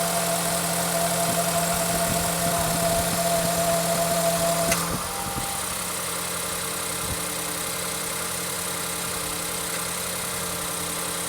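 Ford 1.6 EcoBoost turbocharged four-cylinder petrol engine idling steadily after a start following a long lay-up. About five seconds in, a steady whine stops and the engine gets a little quieter, then runs on evenly.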